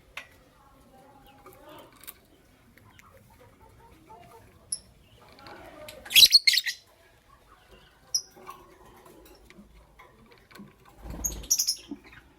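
Pet lovebirds giving short, sharp high-pitched chirps: a few single chirps, then a loud cluster of shrill calls about halfway through and another near the end, with a soft low thump just before the last cluster.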